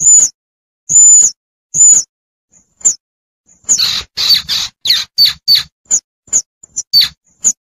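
Baby squirrel (tupai) calling for its mother: a run of short, high-pitched squeaks, with a quick burst of several close together about four seconds in. This distress call is used as a hunting lure to draw in the adult.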